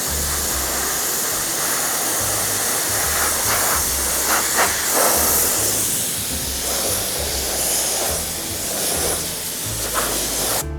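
A steady hiss of air or steam, like a steamer or blower working on the foam, with a background music bass line under it.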